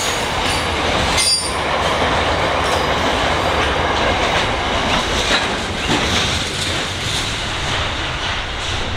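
Wagons of an intermodal container freight train rolling past, a steady rumble and clatter of steel wheels on the rails, with a brief high-pitched wheel squeal about a second in.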